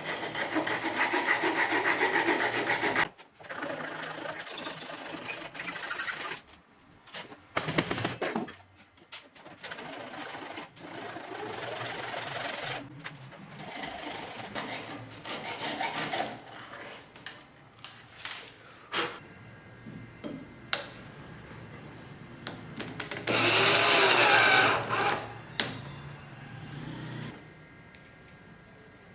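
A power drill running in two longer bursts, near the start and about 23 seconds in, with knocks, taps and rubbing on wood between.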